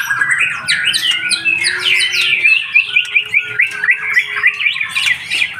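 Caged white-rumped shamas (murai batu) chirping and calling together: a dense, loud chatter of many quick, overlapping sweeping notes.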